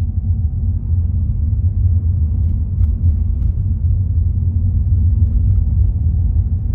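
Steady low rumble of a car driving on the road, with a couple of faint clicks about three seconds in.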